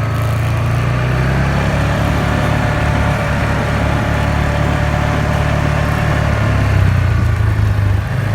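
ATV engine running steadily at slow trail speed, a low drone that grows a little louder shortly before the end.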